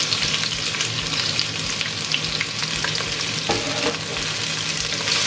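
Sliced onions sizzling and frying in hot coconut oil in a pan, with a spatula stirring them and clicking against the pan.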